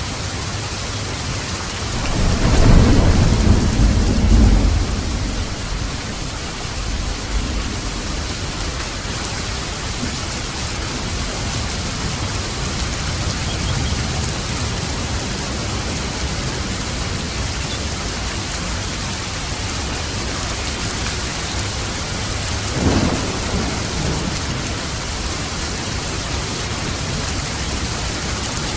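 Steady rain with thunder: a rumble swells about two seconds in and lasts a few seconds, and a shorter, fainter rumble comes about 23 seconds in.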